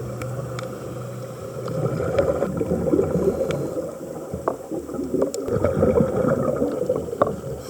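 Water churning and splashing around a boat under way, with a few sharp knocks.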